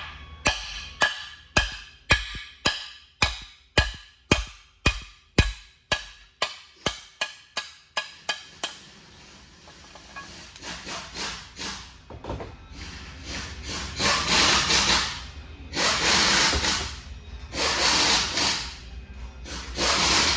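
A hammer striking metal in an even rhythm, about two blows a second, each ringing briefly, for roughly the first eight seconds. After that come harsh rasping bursts of noise, one every second or two, growing louder toward the end.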